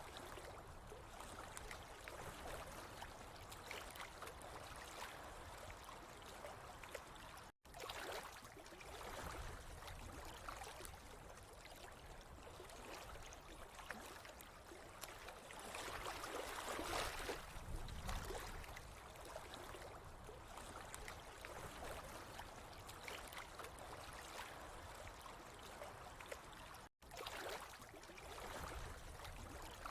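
Running water, a steady rushing noise that swells a little around the middle and drops out for an instant twice.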